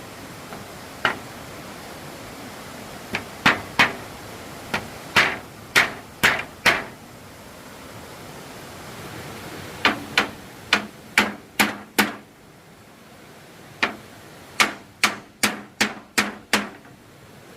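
Hammer striking wood in runs of quick blows, about two a second, with short pauses between runs.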